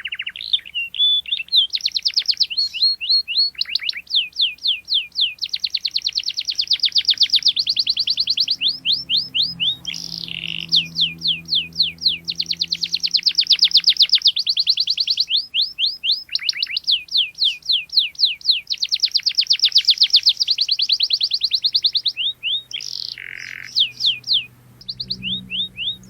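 Domestic canary singing long rolling trills of rapid, repeated high notes, run after run with short breaks between phrases.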